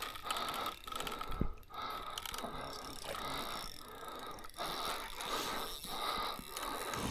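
Fishing reel being cranked against a hooked sturgeon, its gears whirring in a steady rhythm of roughly one and a half handle turns a second. There is a brief low thump about a second and a half in.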